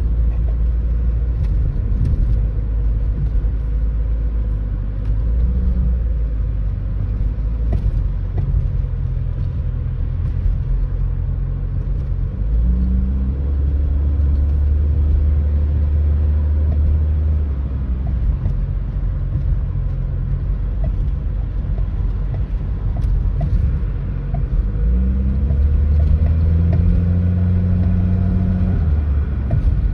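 Saab 9-3 driving with a steady low road and engine rumble; the engine note climbs and holds twice, about halfway and again near the end. Scattered knocks and rattles come through, the clattering and clunking from the front axle that the video sets out to show.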